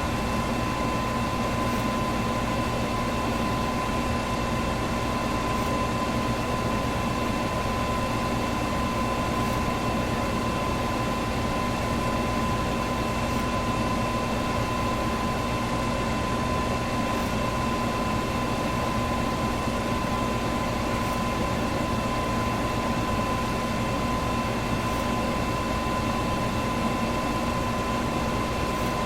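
Electric fan running steadily: an even rush of moving air with a steady motor whine in it, and a faint tick about every four seconds.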